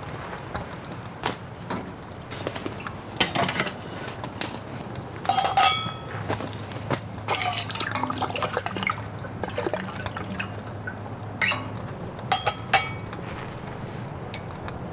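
Liquid being poured and dripping, among a string of clicks and knocks and a couple of short ringing clinks of cookware.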